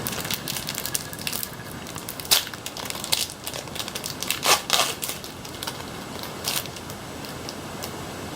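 Foil Pokémon booster-pack wrapper being torn open and crinkled by hand: irregular crackling with several sharper rips and crunches.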